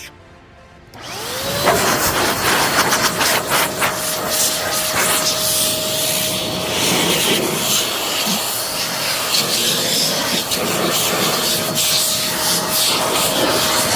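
An electric cleaning machine's motor spins up about a second in and then runs with a steady whine under a loud hissing rush.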